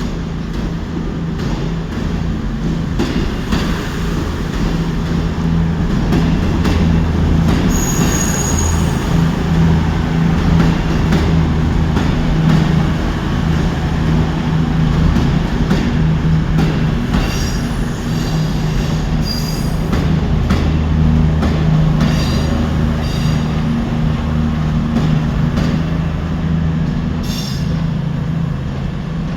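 Train moving slowly through a station, with a steady low drone, wheels clicking over rail joints, and several brief high-pitched wheel squeals, most of them in the middle of the sound.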